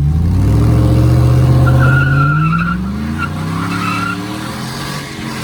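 A vehicle engine accelerating hard: its pitch rises for about two seconds, drops at a shift and rises again. Two short high squeals, like tyres, come about two and four seconds in.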